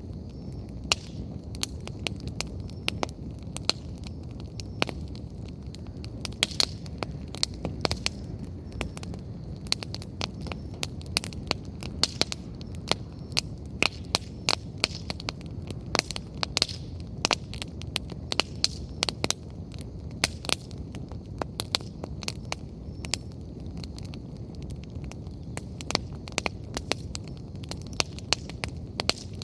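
Wood fire burning, firewood crackling and popping irregularly, several sharp pops a second over a steady low rumble of the flames.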